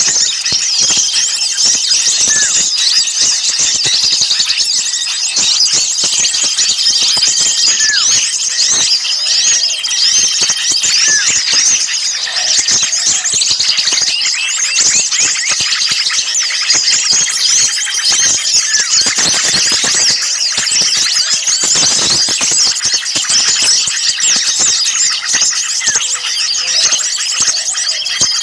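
Dense, agitated chorus of many small songbirds calling at once, a mixed bird-lure recording of noisy small birds. Rapid high chirps and trills overlap without pause, and a short steady whistle recurs every two to three seconds.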